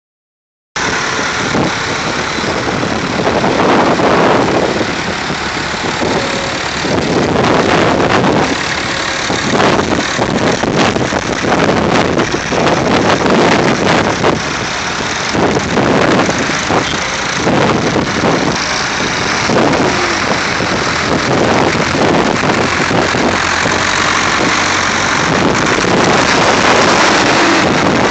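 Vintage tractor engines running as tractors drive off a field, a steady mix of engine noise that starts about a second in.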